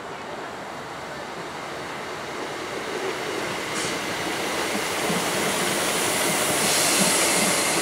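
A train approaching along the track, its noise growing steadily louder, with a high hiss swelling near the end.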